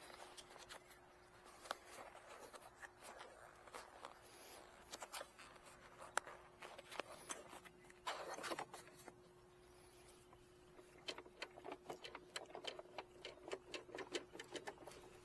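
Scattered light clicks, taps and knocks of small hard objects being handled and fitted back into place, over a faint steady hum.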